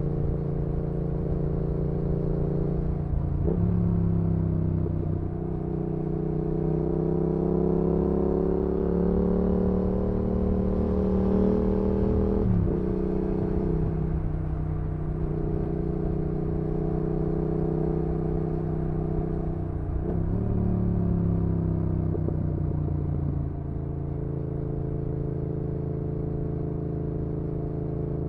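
2019 Yamaha XSR700's 689 cc parallel-twin engine through an IXRACE MK2 aftermarket exhaust, running under cruising throttle. Its pitch rises and falls gently, with sudden breaks for gear changes about three seconds in, about twelve seconds in and about twenty seconds in. It eases off a little near the end.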